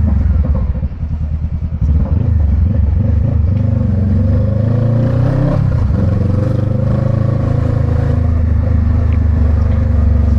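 Motorcycle engine pulling away, its pitch climbing for a few seconds, then dropping at a gear change about halfway through and running steadily after.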